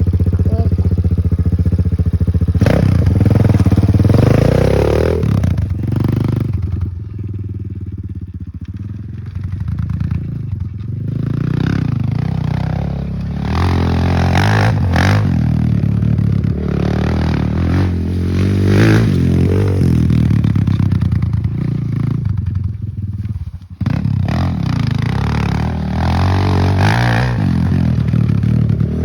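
Kayo K2 dirt bike engine running and revving up and down repeatedly. It is quieter for a few seconds about a quarter of the way in, and the sound drops out sharply for a moment near the end before picking up again.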